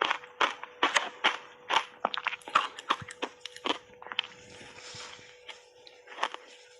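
Mouthfuls of hard shaved ice crunching between the teeth in quick, sharp crunches for the first few seconds. The crunching gives way to softer chewing around four seconds in, then the crunches start again near the end.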